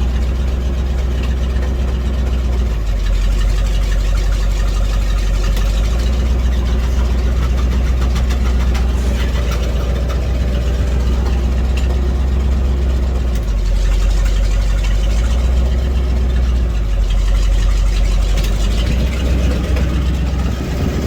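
Truck engine idling, a steady low hum that shifts a little several times as the truck is eased into position.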